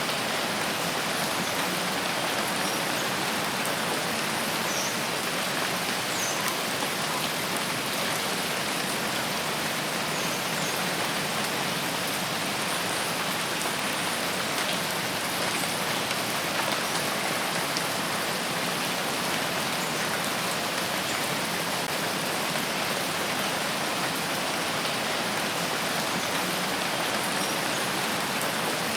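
Steady rain falling as an even, unbroken hiss, with a few faint, short high chirps now and then.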